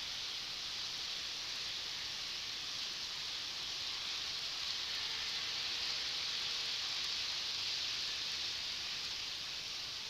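Model Shinkansen train running on the layout's track, a steady high whirring hiss that swells slightly as it passes and eases off near the end.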